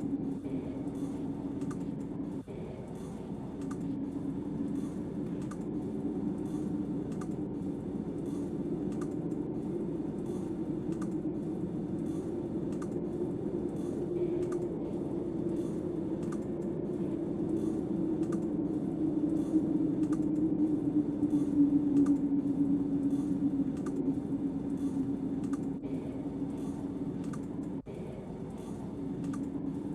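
Steady, wavering drone of snowstorm wind, swelling a little about two-thirds of the way through, with a regular run of light clicks about two a second over it.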